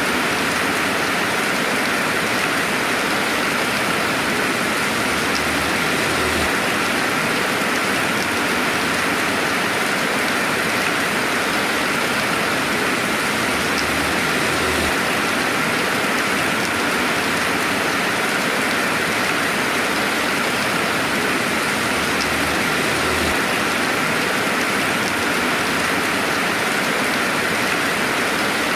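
Steady rainfall, an even hiss of rain with no thunder.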